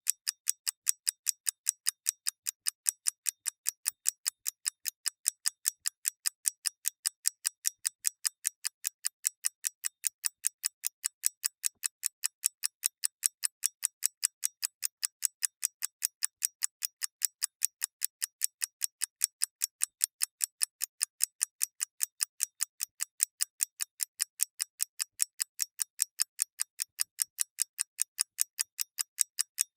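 Clock mechanism ticking at a fast, even rate of a few light, sharp ticks a second, alternating slightly in loudness like a tick-tock.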